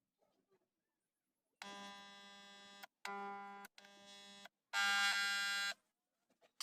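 An electric buzzer sounding four times in a row, each time a steady harsh buzz of about a second with short gaps between. The last buzz is the loudest.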